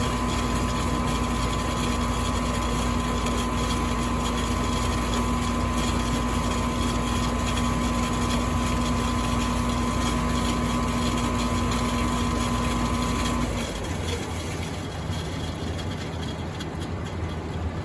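Furnace running with a steady mechanical hum that cuts off abruptly about three-quarters of the way through, leaving a quieter background.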